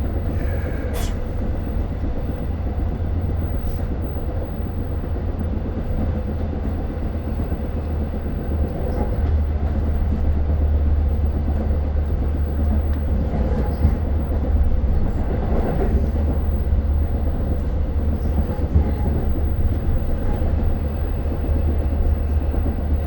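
Long Island Rail Road passenger train running along the track, heard from inside the car: a steady low rumble with a few sharp clicks from the rails. It gets a little louder about nine seconds in.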